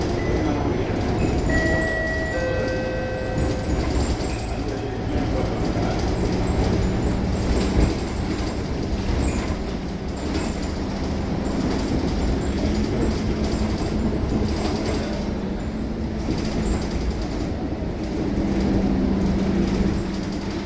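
Scania K230UB city bus's diesel engine and road noise running steadily, with the engine note rising near the end as the bus pulls away. A few short electronic chime tones sound about two seconds in.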